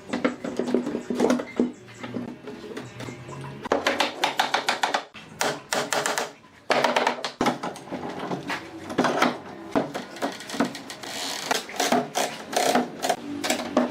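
Woodworking shop sounds: runs of sharp, rapid clicks and taps from hand tools or fasteners at work, with short pauses between bursts.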